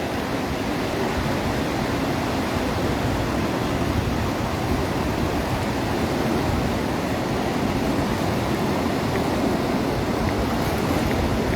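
Steady rush of Atlantic surf breaking on a beach.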